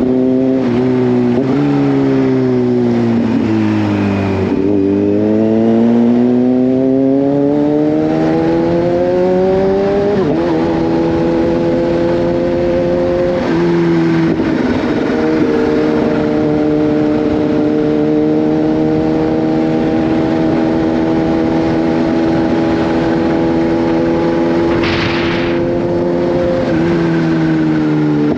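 Kawasaki Z H2's supercharged inline-four engine heard from the rider's seat. It slows with downshifts over the first few seconds, then accelerates with revs climbing for several seconds, and settles into a steady cruise after a shift. A brief hiss comes near the end, and the revs drop again as the rider eases off.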